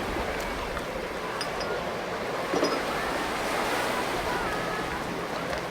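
Beach ambience: steady surf washing on the shore, with a few faint bird calls over it.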